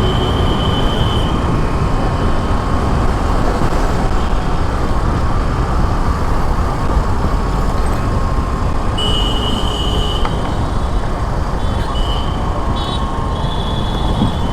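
Motorcycle riding through city traffic: steady wind and road rush with a heavy low rumble. Short high-pitched tones sound briefly at the start, about nine seconds in, and again near the end.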